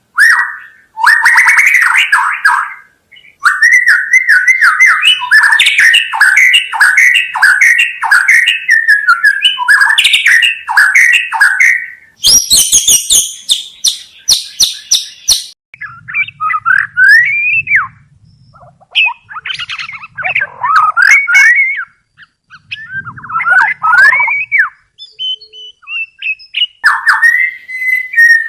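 White-rumped shama (murai batu) singing loudly: fast runs of repeated chattering notes, then a high, harsh rattling passage about twelve seconds in, followed by separate whistled phrases with rising glides and a short pause before the song picks up again near the end.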